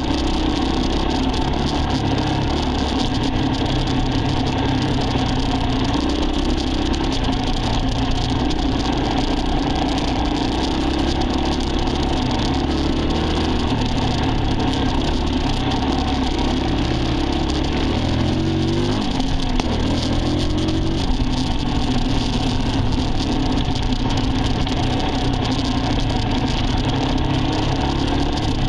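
Dirt bike engine running under way, its pitch shifting up and down in steps as the revs change, with a brief drop and climb in revs about two-thirds of the way through.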